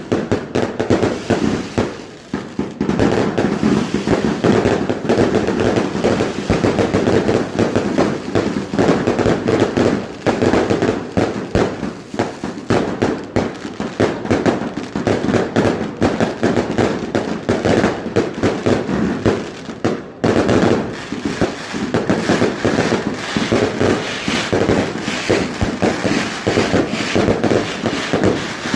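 Fireworks going off in a dense, continuous barrage of rapid bangs and crackling, with brief lulls about two seconds in and about twenty seconds in.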